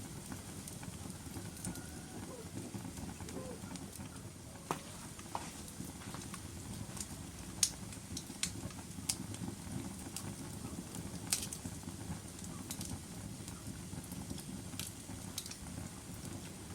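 Log fire burning in a fireplace: a steady low rumble with scattered sharp crackles and pops, the loudest snaps about a third and two thirds of the way in.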